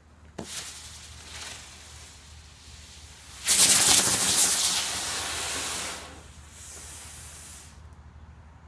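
Ladybug ground-spinner firework: a faint sputtering hiss of the burning fuse, then about three and a half seconds in the spinner ignites with a sudden loud hiss that lasts about two and a half seconds before falling to a weaker hiss that dies out near the end.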